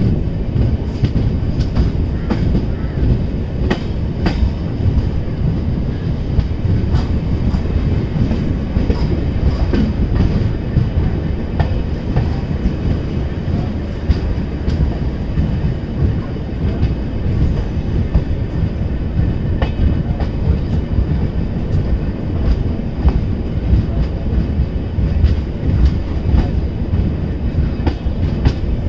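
Passenger express train running, a steady heavy rumble from the coaches with wheels clicking irregularly over rail joints and a faint steady high whine.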